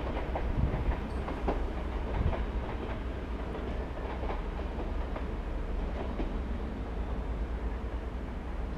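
Dutch NS passenger train wheels clicking over rail joints and switches, with a steady low rumble. The clicks come thickest in the first two or three seconds, then grow sparser.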